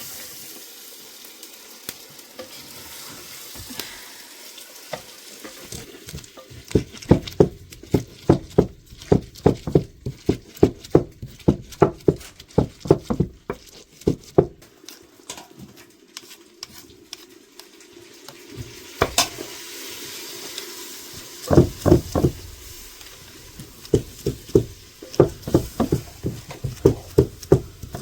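Food sizzling as it fries. From about a quarter of the way in, a utensil knocks sharply and steadily, about two to three strokes a second, in several runs with short pauses between them.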